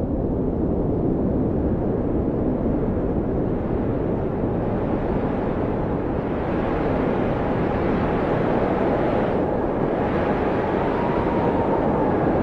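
Blizzard wind blowing hard and steadily with a deep rumble, a faint howling tone rising and falling through it. The wind grows brighter and stronger about halfway through.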